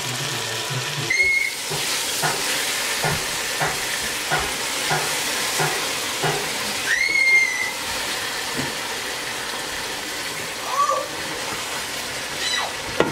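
Food sizzling in a pot while a wooden spatula stirs it, with a run of soft scraping strokes about two a second. Three short high-pitched squeals rise over the hiss, the loudest about seven seconds in.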